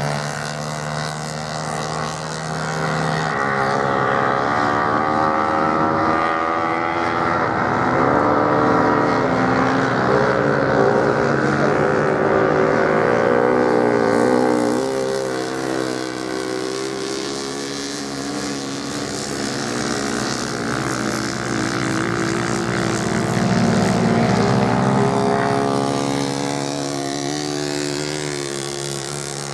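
Several racing motorcycle engines revving up and down as bikes race round a sand track, swelling louder as they pass and fading between passes, with a steady engine hum underneath.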